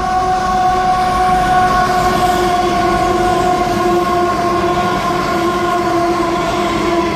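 XRN-class diesel-electric locomotive hauling a coal train past at close range, its engine noise and the rolling of the wagons heard together with a steady high-pitched tone.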